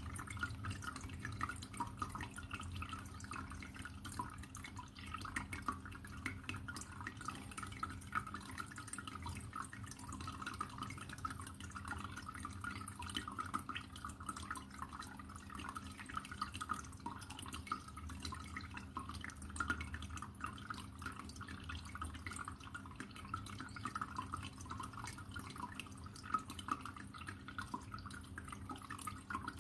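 Aquarium water trickling and dripping steadily in a continuous patter, over a low steady hum.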